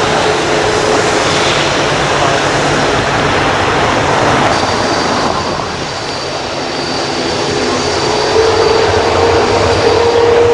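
Jet airliner engines running loud and steady, with a high whine through the second half and a low hum that rises slightly in pitch near the end; most likely the All Nippon Airways Boeing 787-9.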